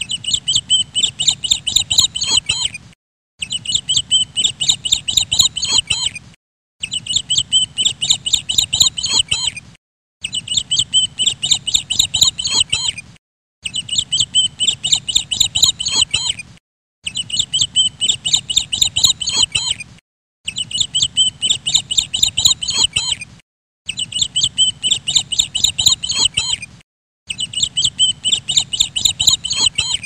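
Rapid, high-pitched bird chirping, about six chirps a second, in a roughly three-second clip that repeats over and over with a brief silent gap between repeats.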